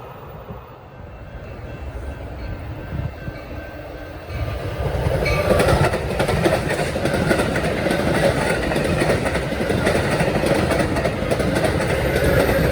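A train passing close by on the rails, growing louder about four seconds in, its wheels clicking rapidly over rail joints over a steady rumble.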